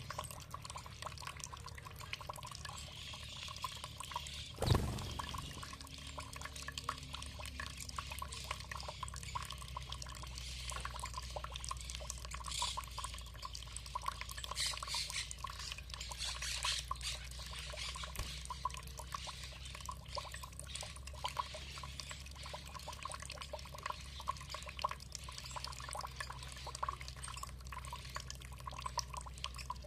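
Water trickling and dripping steadily, with many small splashing drips. About five seconds in there is one sharp, louder knock that rings briefly.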